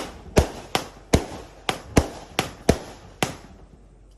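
A 120-shot fan-shaped fireworks cake firing: a quick string of about eight sharp shots, two or three a second, each dying away briefly, with a short lull near the end.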